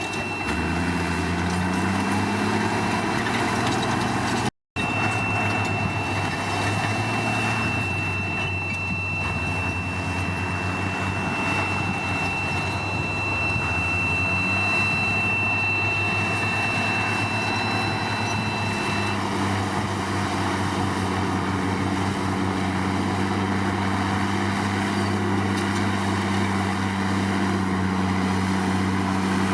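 Komatsu D53 bulldozer's diesel engine running under working load, its pitch rising and falling as it is throttled. A thin steady high whine sounds from about five seconds in until about nineteen seconds in. The sound cuts out completely for a split second a little under five seconds in.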